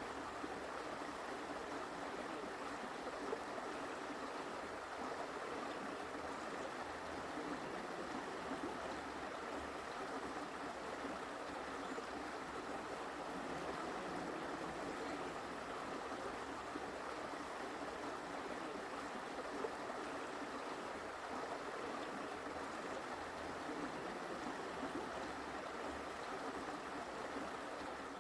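Forest creek water flowing, a steady, even rush.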